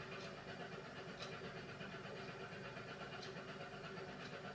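Beko WMY81283LMB2 washing machine partway through a hand wash cycle: a steady hum, with short hissing bursts about once a second.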